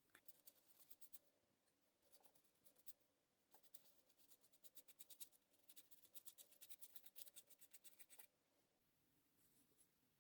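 Faint, quick back-and-forth strokes of a paintbrush applying varnish to a small decorative fireplace, in a few runs of several strokes a second, stopping about eight seconds in.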